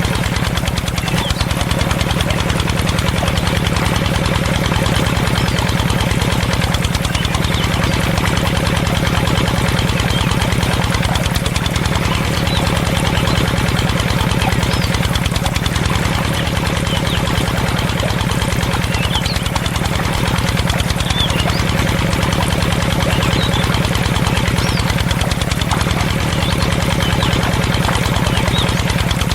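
Small engine of a miniature water pump running steadily with a fast, even chug while it pumps water onto a field.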